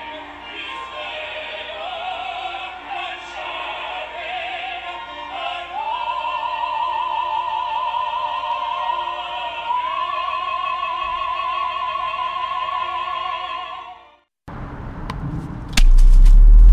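Operatic singing with wide vibrato that climbs into a long held high note, then cuts off abruptly. After a short gap come clicks and a loud, low, different sound near the end.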